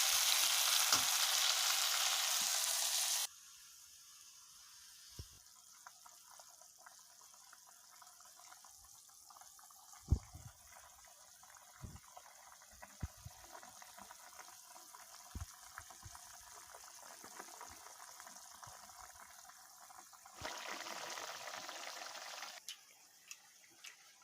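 Meat sizzling as it fries in a pan. The sizzle cuts off abruptly after about three seconds, leaving a quieter stretch with scattered knocks and clinks. A second burst of sizzling comes about twenty seconds in and lasts about two seconds.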